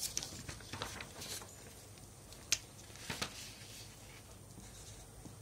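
Faint scratches and taps of someone writing: a run of short strokes at first, then a few sharper ticks in the middle.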